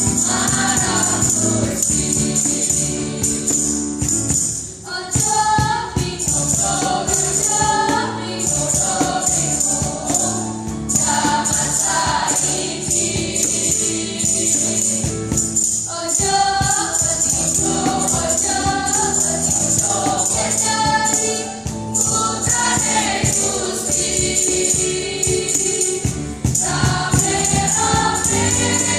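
A church choir singing in parts, phrase after phrase, over a sustained accompaniment, with a steady high jingling shimmer running through it.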